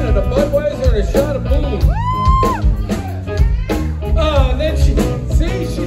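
Live blues-rock band playing, with drums, bass and electric guitar; about two seconds in a high note slides up and is held for about half a second.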